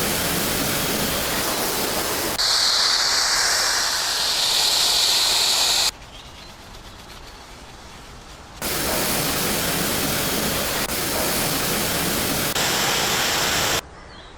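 Steady rushing hiss of water spray from washing the car, in several clips joined by abrupt cuts, with a much quieter stretch in the middle.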